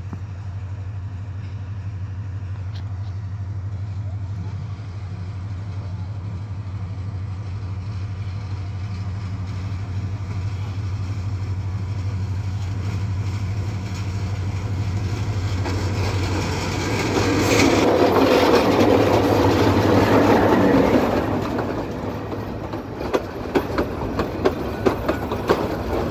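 Diesel-electric locomotive no. 2910 approaching with a steady low engine drone that grows louder. About two-thirds of the way through comes a loud rush of engine and wheel noise as it passes. In the last few seconds the coaches' wheels give a regular clickety-clack over the rail joints.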